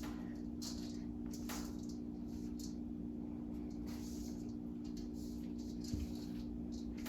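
Fresh noodles frying in a wok with oil and soy sauce: light sizzling and scattered short hisses from stirring, over a steady low hum.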